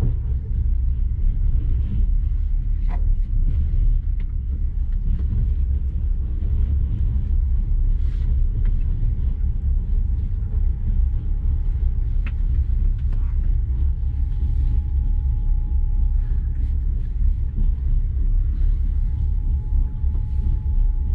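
Passenger train rolling along, heard from the carriage as a steady low rumble, with a faint steady whine above it.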